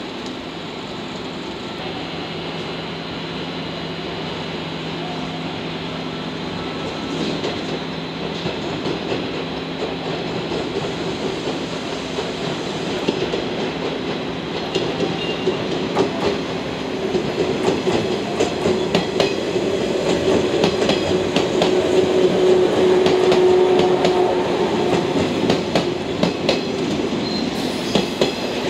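JNR 113-series four-car electric train running slowly past, its wheels clacking over rail joints and points. The sound grows louder as the train draws near, with the clacks coming from about halfway on.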